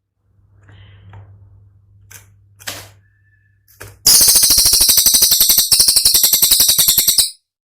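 Cililin songbird singing a loud, very rapid rattling trill of about three seconds, briefly broken partway through, the sharp 'tembakan' burst prized in bird-training recordings. A few faint notes and a low hum come before it.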